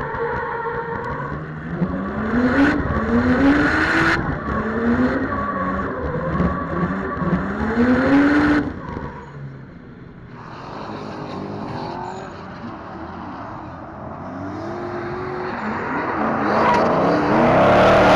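Drift car engines revving hard in repeated rising sweeps as the throttle is worked, with tyre squeal. The sound drops suddenly about halfway to a quieter, more distant car revving, then builds again near the end with loud tyre noise.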